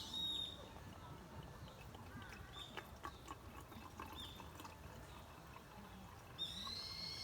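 Birds singing: a clear whistled note right at the start and another longer one near the end, with scattered short chirps between.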